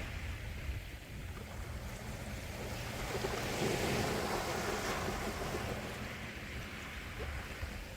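Gentle sea waves washing onto the shore, the surf swelling about three seconds in and easing off again, with a low rumble of wind on the microphone.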